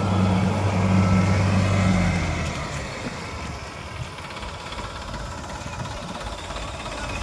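Tractor engine running with a steady low hum, which drops away about two and a half seconds in, leaving fainter background noise.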